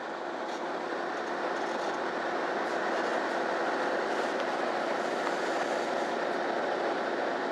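MAN Lion's City Ü bus on the move, heard from inside the passenger cabin: steady engine drone and road noise with a constant hum, growing louder over the first couple of seconds as the bus picks up speed, then holding steady.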